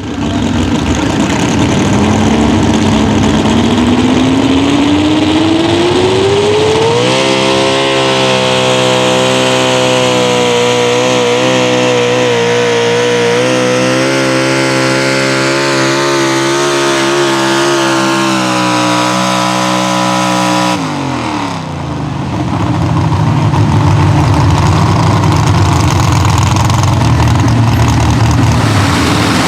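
Pro Stock four-wheel-drive pulling truck's engine at full throttle under load. The revs climb for about seven seconds and hold high and steady for about fourteen more, then fall away sharply about twenty-one seconds in as the throttle comes off. The engine keeps running at low revs to the end.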